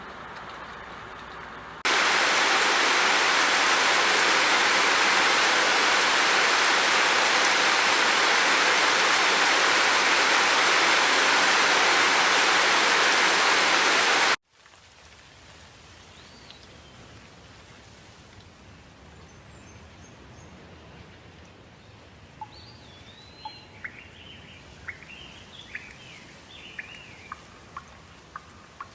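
Heavy, steady rain that cuts in abruptly about two seconds in and stops suddenly about halfway through. It gives way to a much quieter outdoor ambience with birds chirping, the calls coming thick and fast near the end.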